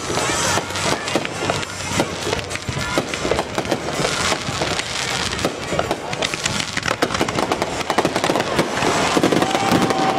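Aerial fireworks bursting overhead: a dense run of sharp pops and crackles from the shells, going on without a break.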